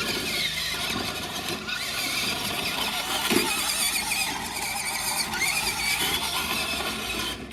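RC monster truck running, its motor whining up and down in pitch over a steady rushing noise.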